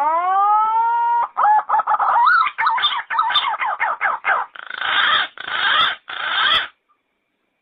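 Yellow-footed green pigeon song: a rising whistled opening note, then a quick run of wavering, warbling notes, ending in three harsher, rougher notes. It stops suddenly near the end.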